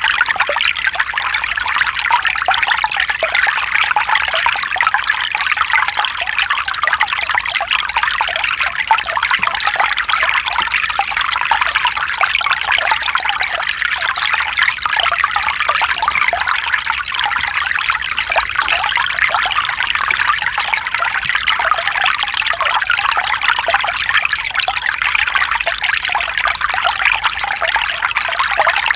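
Mountain stream flowing over stones, a steady bright trickling and splashing of water.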